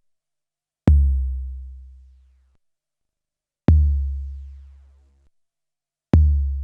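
A deep kick-drum sample played from a 12-bit SP-1200 sampler, triggered three times about two and a half to three seconds apart. Each hit has a sharp click, then a low boom that fades over about a second and a half before cutting off abruptly.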